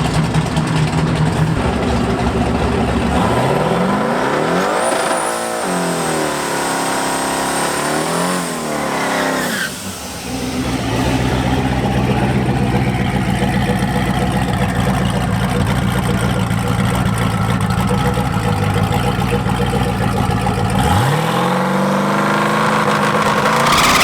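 Twin-turbo Chevrolet Malibu drag car's engine revving up and down several times with a high whistle over it, then holding a steady note, then climbing sharply in pitch near the end as the car launches down the strip.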